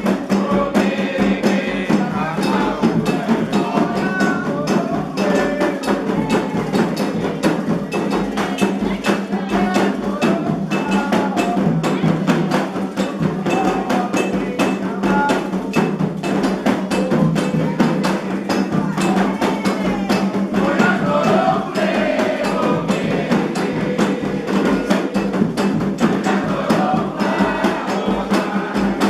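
Candomblé ritual music: atabaque hand drums and an agogô bell keep a steady rhythm under sung chants.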